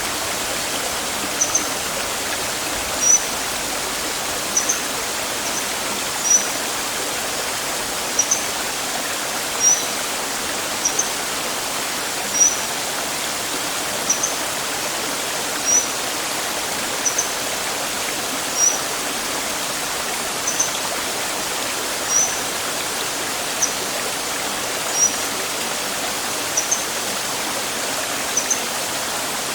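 Steady rushing water like a small stream, with a bird repeating a short, high chirp about every one and a half seconds.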